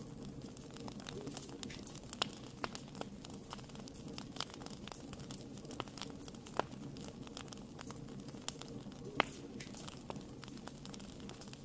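Wood fire in a fireplace crackling, with frequent sharp pops and snaps over a low steady rumble; the loudest pop comes about nine seconds in.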